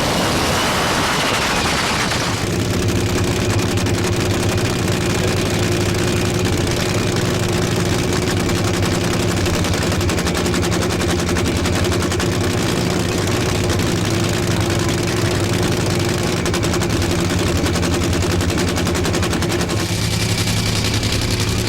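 Supercharged nitromethane-burning Funny Car V8 idling with a rapid, steady staccato crackle. A louder rush of noise fills the first two seconds before the idle settles.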